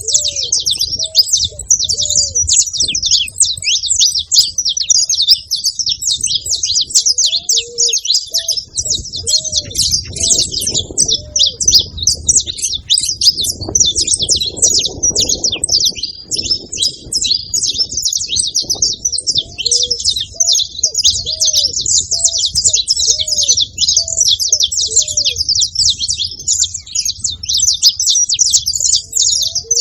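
Several saffron finches chirping and singing together in a dense, continuous chatter of high notes. A low note repeats about once a second underneath.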